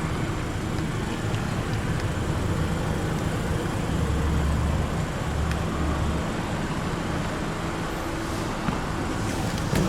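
2015 Lexus NX 200t's 2.0-litre turbocharged four-cylinder idling with a steady low hum, with a few light clicks near the end.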